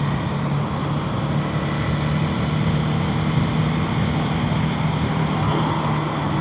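KTM Duke 250's single-cylinder engine running steadily at cruising speed, with wind and road noise, heard from a mic inside the rider's helmet.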